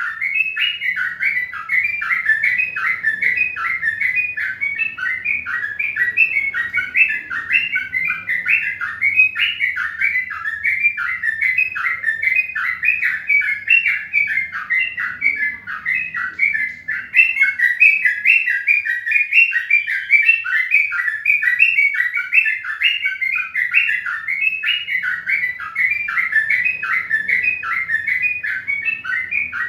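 A small bird chirping in a fast, steady run of short repeated notes, several a second, with a brief lull about halfway through.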